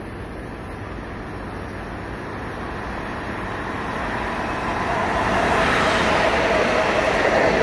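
Long Island Rail Road M9 electric multiple-unit train approaching and passing along the platform, its rumble and wheel noise growing steadily louder. From about five seconds in it is at its loudest, with a steady whine over the rumble.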